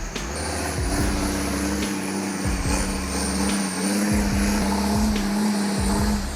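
Engine of a heavy machine running with a steady drone. Its pitch edges up partway through, and it cuts off near the end.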